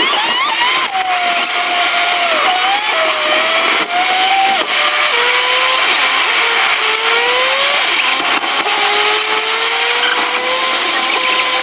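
Mercedes-AMG A45's turbocharged four-cylinder heard from inside the cabin, revving up hard as the car pulls away. Its pitch then climbs and drops several times as the gearbox shifts up under acceleration, with steady road and wind noise underneath.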